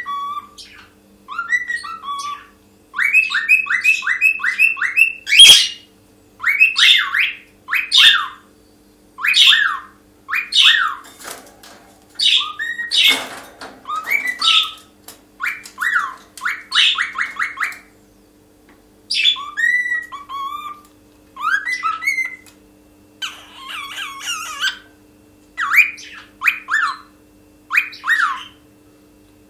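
Cockatiel singing: whistled phrases of quick gliding notes, including runs of rapid repeated notes and a few harsher chattering passages, with short pauses between phrases. A sharp click sounds about five seconds in, and a faint steady hum lies underneath.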